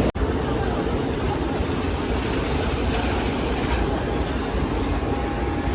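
Steady rumble of car engines running, with a faint steady hum in it. A brief dropout right at the start.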